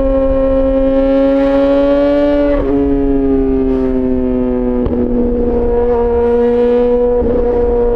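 Yamaha XJ6 S 600 cc inline-four motorcycle engine running under throttle through an SC-Project aftermarket exhaust. Its steady pitch rises a little, then breaks and steps lower about two and a half seconds in, again around five seconds in, and once more near the end.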